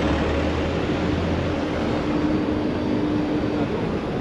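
Steady city traffic noise heard from a moving bicycle. A low engine hum fades out after about a second and a half, and a steady tone holds from then until near the end.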